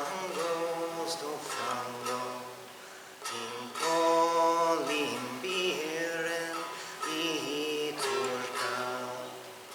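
A solo voice singing an old Greek folk lament in the Vallahades dialect of Macedonian Greek, with long held notes ornamented by slow slides and turns, the phrase breaking and starting afresh about three seconds in and again near the end.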